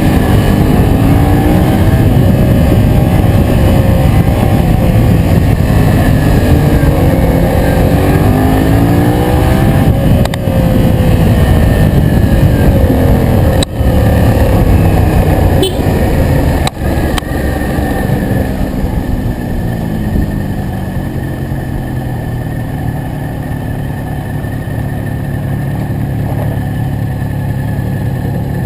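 Yamaha MT-07's parallel-twin engine under way, its note rising and falling repeatedly as it accelerates and eases off, over heavy wind rush on the camera microphone. After two brief dips, about halfway through it settles into a lower, quieter, steadier note.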